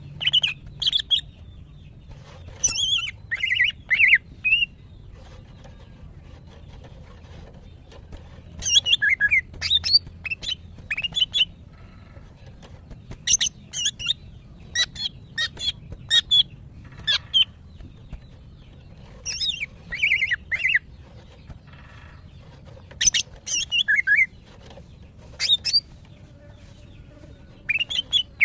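Female greater green leafbird (cucak ijo) calling in bouts of rapid, sharp chirps and twittering, about six bouts with short pauses between them. This is the excited calling of a female in breeding condition calling for a male, which sets males singing.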